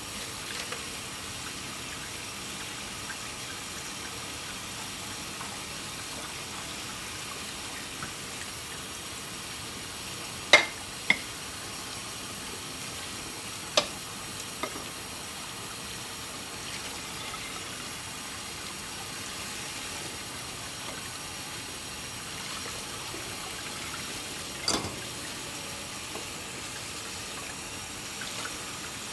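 Kitchen tap running steadily into a sink during hand dishwashing, with a few sharp clinks of dishes knocking together, two close together about a third of the way in, another soon after and one more near the end.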